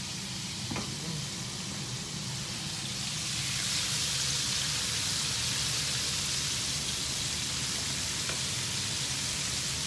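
Chicken pieces deep-frying in a pan of hot oil, a steady sizzle that grows louder about three seconds in.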